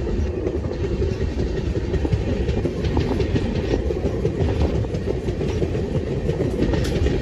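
Passenger train running along the track: a steady low rumble with the wheels clattering over the rail joints, heard from the open door of a coach.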